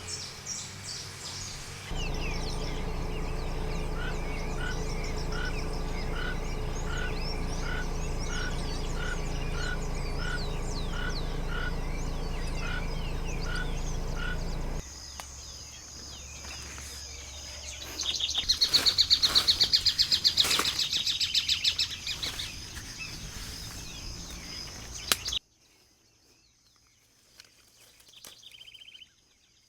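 Forest ambience made of several recordings that cut in and out abruptly: birds chirping and calling over a steady background hiss, one call repeated at an even pace. A loud, rapid trill follows in the middle, then a much quieter stretch with a few faint calls.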